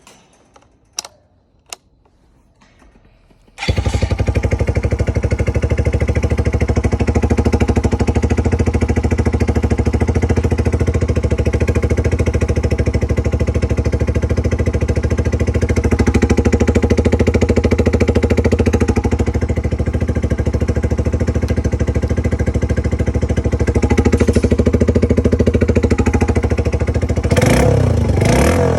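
A couple of short clicks, then a Suzuki GN125H's single-cylinder four-stroke engine starts about three and a half seconds in and idles steadily. Near the end the throttle is blipped a couple of times, the engine note rising and falling.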